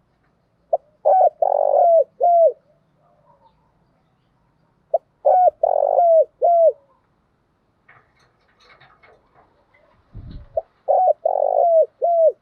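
Spotted dove singing its calling song: three phrases a few seconds apart, each a quick run of coo notes with a longer one in the middle. A short low thump comes just before the third phrase.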